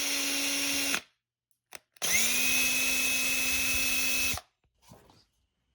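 Power drill drilling out a plastic spray-paint can cap: a steady run that stops about a second in, then a second run that spins up and holds steady for about two seconds before stopping.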